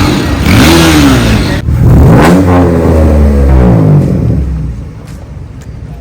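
A vehicle engine is revved up and let fall back twice, its pitch rising and dropping each time, then the sound fades lower near the end.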